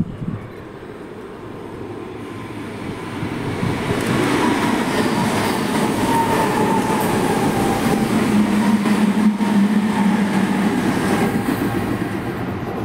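Meitetsu electric express train passing through a station at speed without stopping. Its rumble of wheels on rails grows over the first few seconds, holds steady while the cars go by, and eases near the end, with a thin whine partway through.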